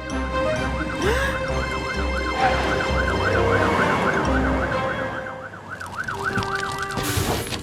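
Cartoon fire truck siren wailing in quick up-and-down sweeps, about three a second, over the low brumming of the racing trucks' engines; it stops near the end with a short whooshing burst.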